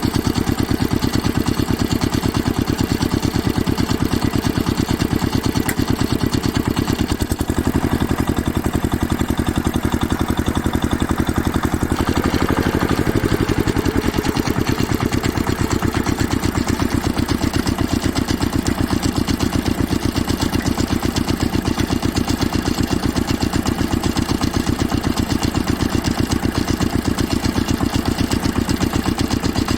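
Small engine running steadily at idle, with an even, rapid firing pulse; about halfway through its pitch rises briefly and settles back.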